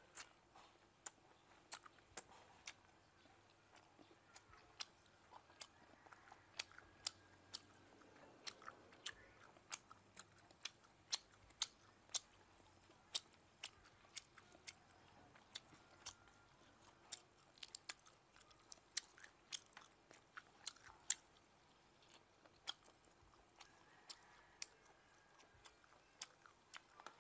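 Close-miked chewing of grilled frog, with frequent sharp crunches and clicks as crisp skin and small bones are bitten and pieces are pulled apart by hand.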